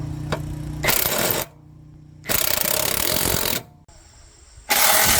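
A machine hum for about the first second, then three loud hissing bursts, the middle one the longest.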